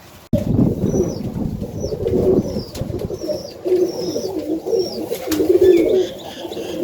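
Domestic pigeons cooing in a loft, with a run of thin, high chirps about twice a second over the low cooing.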